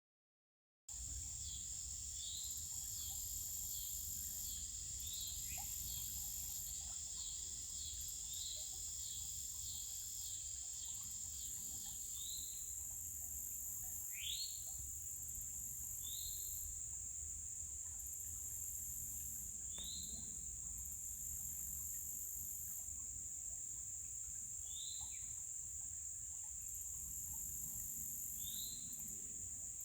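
Outdoor nature ambience of insects trilling: a steady high-pitched drone under a pulsing higher chorus, with a rapid repeated trill for the first dozen seconds. Short falling bird chirps come every few seconds.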